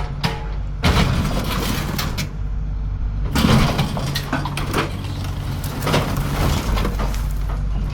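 A small demolition machine running steadily as it pulls on a mobile home's structure, with loud crunching and cracking crashes of the structure tearing apart, the biggest about a second in and again about three seconds later.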